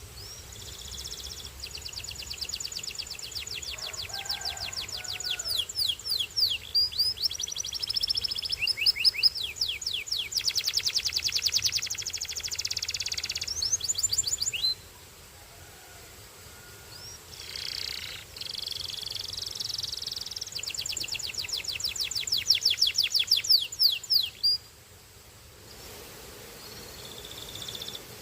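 Canary singing: long, high-pitched song made of rapid trills of quickly repeated notes and rolls, in two long phrases with a pause between them.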